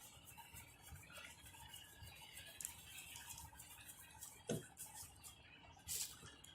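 Faint handling noises of work on a bench: scattered small clicks and rustles, a single knock about four and a half seconds in, and a short hissing scrape near the end.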